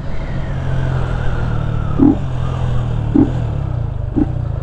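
Yamaha Fazer 250's single-cylinder engine, running without its air filter, with a pitch that falls over the first two seconds as the bike slows, then running at low revs. A few short low blips come roughly once a second in the second half.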